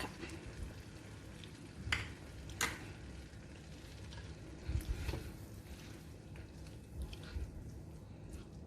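Chicken masala gravy sizzling faintly in the pan just after water has been added, with a few light knocks, about two seconds in and again around five seconds.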